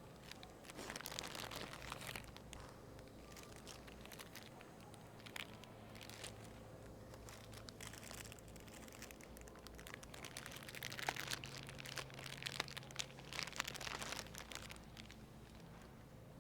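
Plastic produce packaging crinkling and rustling as it is handled, in two spells: briefly about a second in, and again for several seconds near the end, with a few sharp clicks, over a low steady hum.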